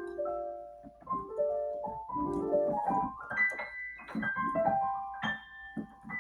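Piano-like keyboard playing melodic phrases of single notes and broken chords, rising in runs and falling back.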